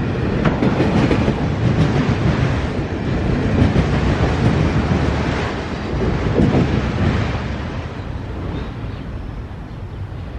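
Norfolk Southern freight train rolling past, its steel wheels rumbling and clacking over the rail joints. The noise fades steadily over the last few seconds as the train draws away.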